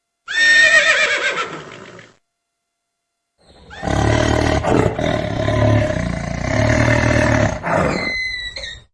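Two separate animal calls: a short, high call that falls in pitch, then, after a pause, a long, loud roaring call lasting about five seconds.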